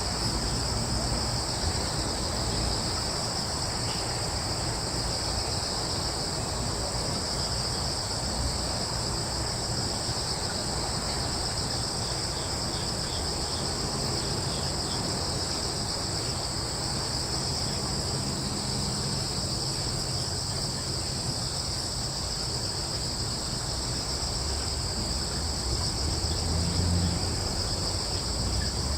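A chorus of crickets chirring steadily in a continuous high shrill drone, over a low steady rumble.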